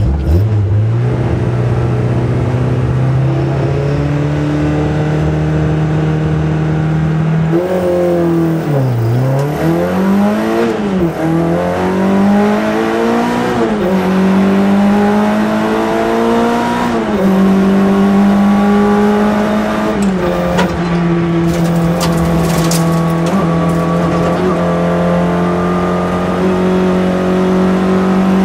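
Citroën AX GT rally car's four-cylinder engine at full race pace, heard from inside the cabin. The revs hold high for several seconds, then swoop down and back up several times as the car brakes and changes gear, then hold high again.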